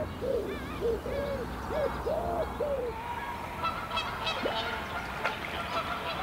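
A bird calling: a run of about five low, smooth notes, each rising and falling, in the first three seconds, with fainter, higher bird notes over them. A few faint clicks follow later.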